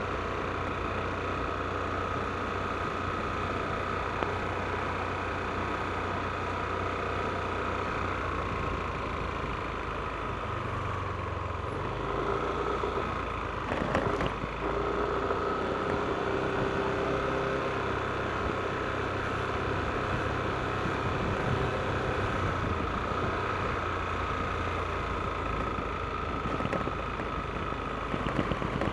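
Yamaha NMAX scooter's single-cylinder engine running steadily while riding, with road noise. The engine note shifts a little under halfway through, and a single sharp click comes soon after.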